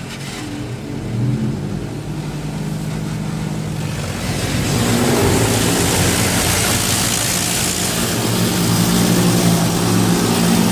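Car wash pre-soak spray hitting the vehicle, heard from inside the cabin: a hiss of water that grows louder about four seconds in, over a steady low machinery hum.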